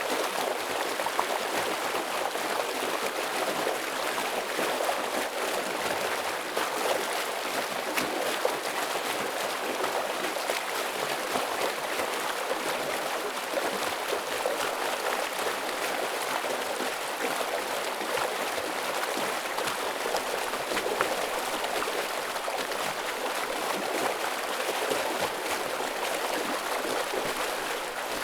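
Stream flowing heavily: a steady rushing of water with many small splashes.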